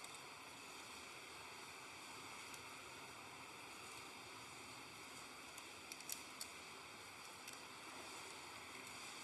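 Near silence: steady hiss, with a few faint clicks about six seconds in.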